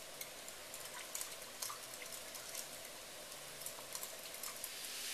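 Chicken pieces frying in vegetable oil in a wok, a faint steady sizzle with a few small pops, growing louder near the end.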